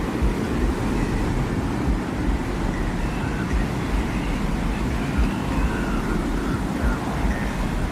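Desert wind ambience: a steady low rush of wind with faint thin whistling tones drifting in and out above it.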